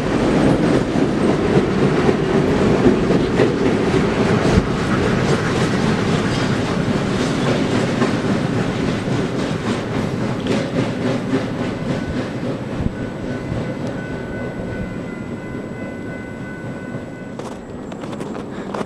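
Freight train of grain hopper cars rolling past: a steady rumble with wheels clicking over the rail joints. It fades gradually as the cars go by, and faint thin squealing tones appear in the later seconds.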